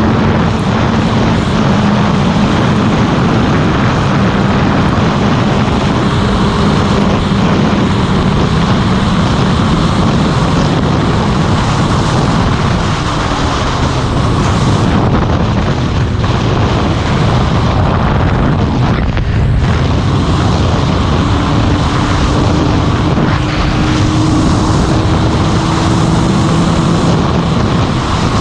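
Motorcycle engine running at road speed under heavy wind rush over the microphone. The engine note holds steady, drops about halfway through, then climbs slowly again.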